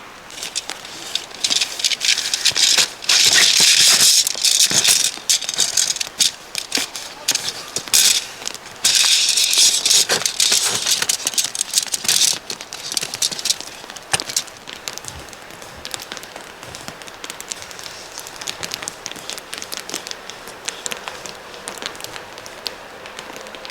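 Tent being pitched: nylon tent fabric and gear crinkling and rustling as they are handled, in loud bursts for the first half, then lighter crackling.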